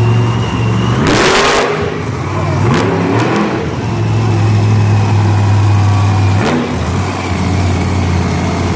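Monster truck engines running loud and steady, revved about a second in with a rising pitch that falls back over the next couple of seconds. Near the start of the revving comes a brief, very loud whoosh of noise.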